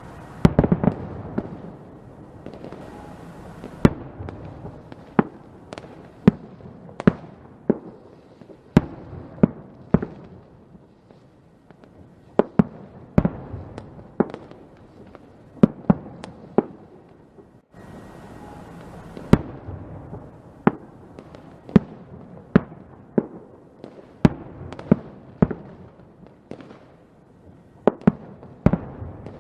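Fireworks going off: a string of sharp bangs, roughly one a second at uneven intervals, over a steady low noise, with a short lull about two-thirds through.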